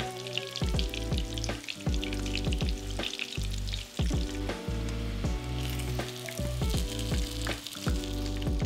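Breaded eggplant strips frying in hot vegetable oil, sizzling with a continuous fine crackle, over background music with steady bass notes.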